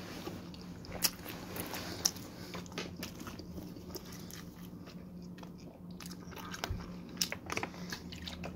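A person chewing mouthfuls of cheesy garlic pizza fast, with scattered crunches and wet mouth clicks, over a low steady hum.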